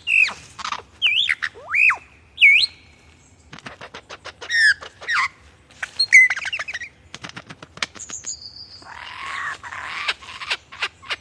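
A bird calling: several loud whistled notes that slide up and down, then a run of clicks and quick warbled notes, and a longer, harsher call near the end.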